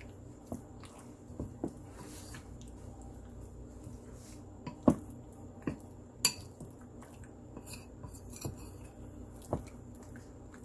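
A utensil clinking and knocking against a mixing bowl now and then, about eight irregular strikes, while raw chicken strips are stirred to coat them in cornstarch.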